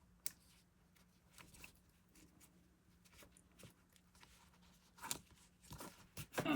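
Faint handling noises of yarn and a crochet piece being worked by hand: scattered soft clicks and rustles, a little louder near the end.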